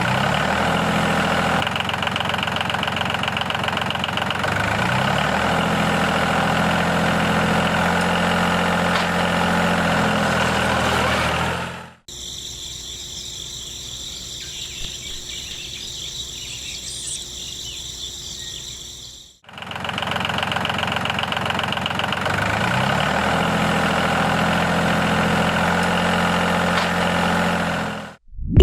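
Small engine of a miniature DIY tractor running, revving up briefly a couple of times. An edit cut in the middle brings in a quieter steady hiss for several seconds before the engine returns.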